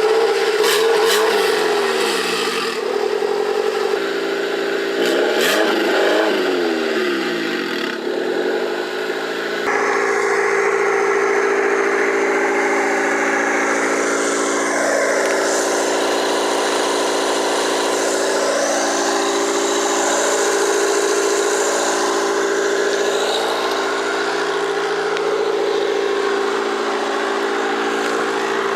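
Turbocharged Honda D16Y8 four-cylinder engine running, revved up and back down a few times in the first several seconds, then holding a steady idle with small swells in revs.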